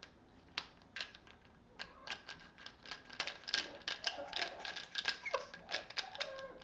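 A cockatoo's beak working a toy nut and bolt, making irregular small clicks and taps that grow busier from about two seconds in.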